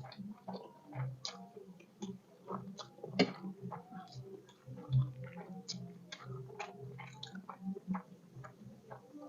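People eating fast, with chewing and mouth smacking and many short irregular clicks.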